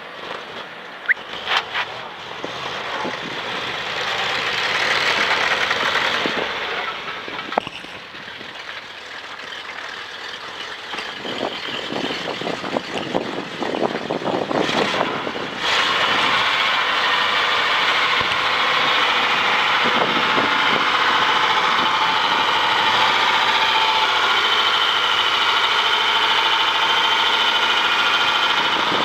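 1973 Dodge 600 grain truck's engine. A few sharp clicks come near the start, then the engine runs, rising and falling in speed. About halfway through it steps up suddenly to a steady, louder run that holds.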